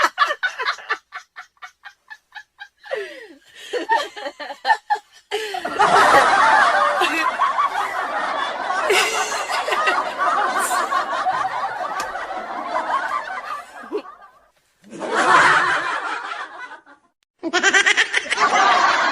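People laughing: quick rhythmic snickering at first, then a long stretch of loud laughter, then two shorter bursts near the end.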